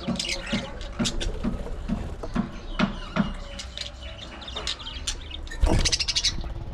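A flock of budgerigars chattering, with a rapid run of short chirps and clicks. A louder burst of calls comes near the end, over a faint low hum.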